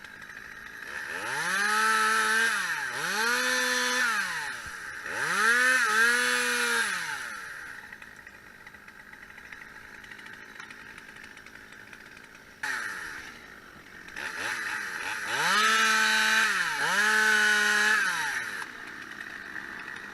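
Two-stroke chainsaw revved to full speed in short bursts of a second or two, dropping back to idle between them. There are three bursts in the first seven seconds, a longer idle, then two more bursts near the end.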